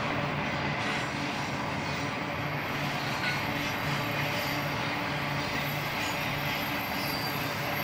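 Double-stack intermodal freight cars rolling past on the rails: a steady rumble of steel wheels on track, with a low hum that comes and goes.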